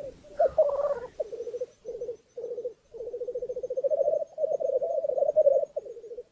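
Male black grouse giving the bubbling lek song (rookooing): a low, rapidly pulsing cooing in phrases, broken by short pauses.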